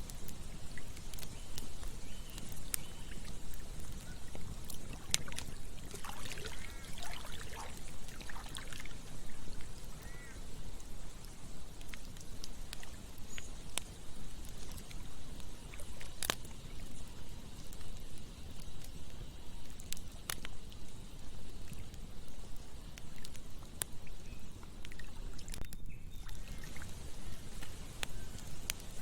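Campfire crackling, with sharp pops now and then, over the steady rush of a flowing stream. A few short bird calls come in around a quarter of the way through.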